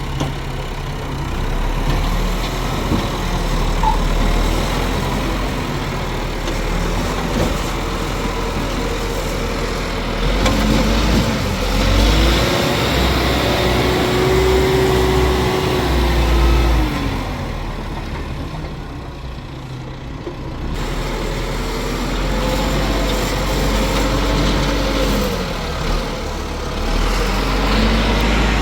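Engine running loud and steady, its speed rising and falling several times: it revs up about ten seconds in, holds, drops back, dips quieter, then revs up again twice near the end.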